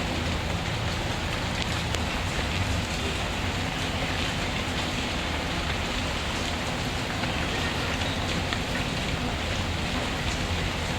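Steady rainfall, an even hiss of rain on a surface, with scattered light crackles from a wood fire.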